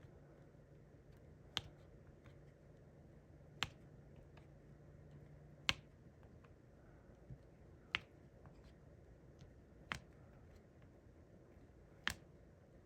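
Six sharp, light clicks about two seconds apart: a diamond painting pen tapping resin drills onto the canvas.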